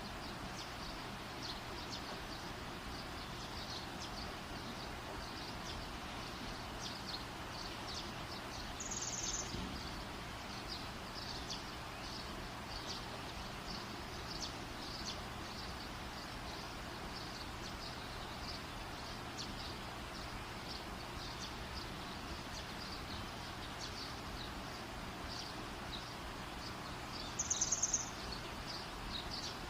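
Campfire burning with a steady hiss and frequent small, irregular crackles. Two brief louder high-pitched bursts stand out, one about a third of the way in and a stronger, pulsing one near the end.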